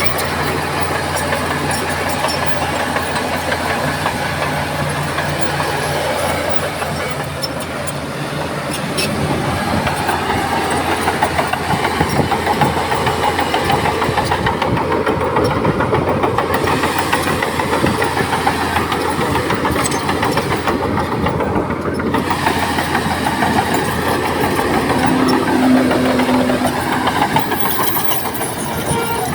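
Heavy diesel earthmoving machinery running: a steady, even engine note for the first several seconds, then louder and rougher from about nine seconds in as the machine works harder. A brief falling whine comes near the end.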